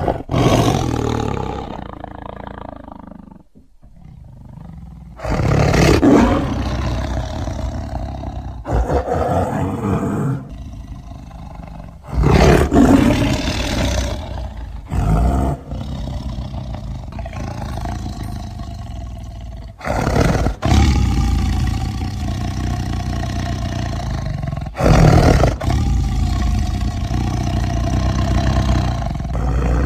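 A large animal roaring: a series of loud, drawn-out roars in separate edited segments that start and stop abruptly.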